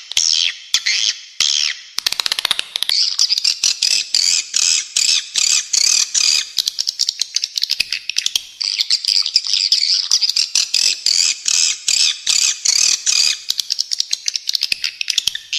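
Dense, rapid bird chirping of spiderhunter (pijantung) and swiftlet (walet) calls, played as a songbird-training master recording. Harsh chirps run several a second without a break, sitting high in pitch.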